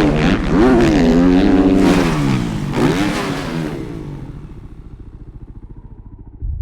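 Motocross bike engines revving up and down as the riders work through the rhythm-section jumps, then fading away about four seconds in to a low throb. A louder low rumble cuts in at the very end.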